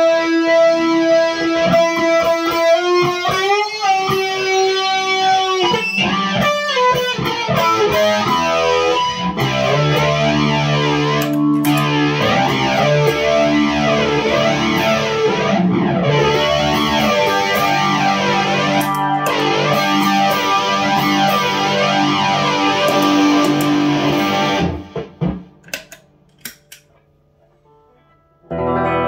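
Electric guitar, a single-coil Stratocaster played through effects pedals into a Fender Twin Reverb: a long held note bent upward about three seconds in, then a dense run of ringing notes with distortion. The playing stops about 25 seconds in and the sound dies down almost to silence, with a note struck again right at the end.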